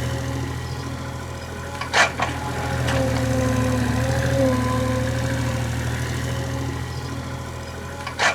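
Excavator's diesel engine running steadily, with a wavering whine over it and two sharp knocks, one about two seconds in and one near the end.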